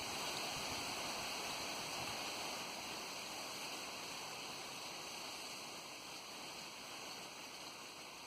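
Steady rushing hiss of wind at the shore, easing slightly toward the end.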